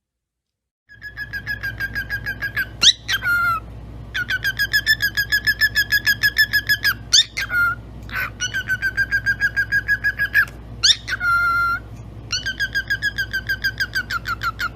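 A pet bird giving long strings of fast repeated chirps, about seven a second, all at one pitch, broken by a few short sharp upward whistles. It starts about a second in.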